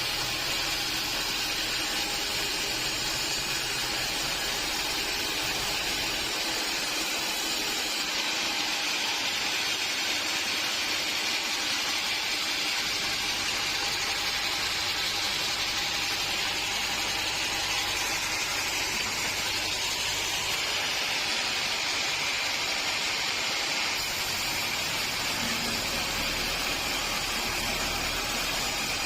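Steady mechanical noise of sawmill machinery running, an even hiss over a low hum with no distinct cuts or knocks.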